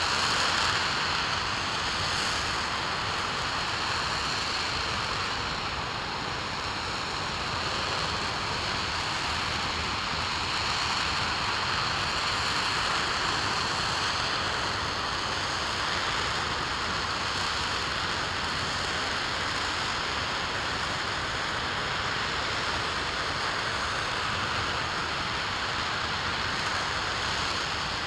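RS-25 liquid-hydrogen/liquid-oxygen rocket engine firing steadily on a ground test stand: a continuous rushing noise that holds an even level throughout.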